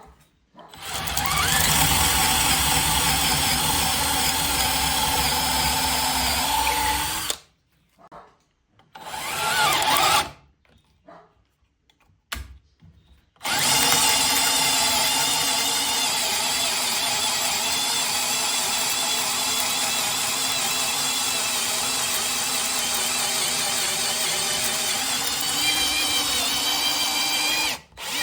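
Parkside PSBSA 20-Li C3 20 V cordless 3-in-1 drill/impact driver running in three spells: a run of about seven seconds, a short burst about ten seconds in, then a long steady run of about fourteen seconds that stops just before the end.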